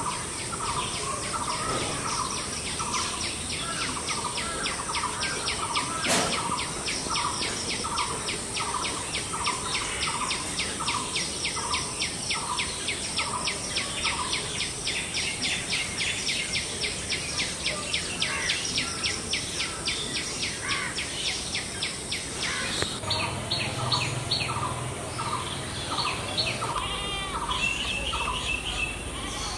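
Birds calling: a fast, even series of short high chirps at about four or five a second, over a lower call repeated about twice a second that stops about halfway through and returns near the end. A steady high insect whine runs underneath.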